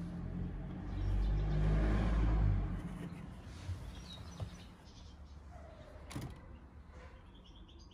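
AEG/Electrolux washing machine drum spinning with a 6-litre water bottle inside as a heavy, unbalanced load. A low rumble swells about a second in, then dies away as the drum runs down, with a single click a little after six seconds.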